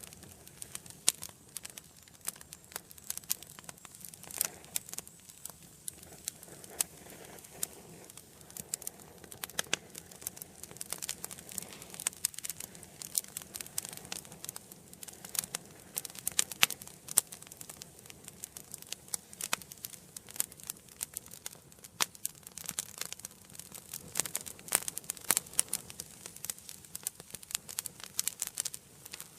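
Wood fire burning in an indoor fireplace, crackling with many sharp, irregular pops and snaps over a faint steady hiss.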